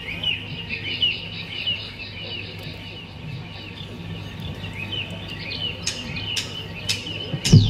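Small birds chirping over and over, with a steady low hum underneath. Near the end come four sharp clicks about half a second apart, then a high tone that sweeps steeply down.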